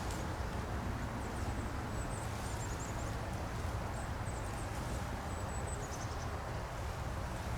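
Spring woodland ambience: a steady wash of outdoor background noise with faint, high small-bird chirps in short clusters recurring every second or so.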